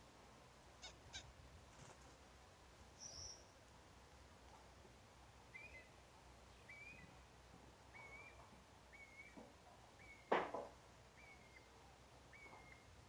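A bird repeating a short call, seven times, each a little over a second apart, over faint background, with a higher chirp before it. About ten seconds in there is one brief, louder sound.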